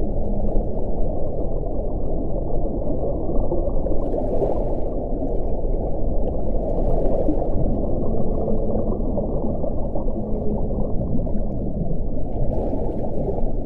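Steady, deep wind blowing, with a breathier hiss as gusts swell about four, seven and twelve seconds in, and a faint low moaning tone now and then.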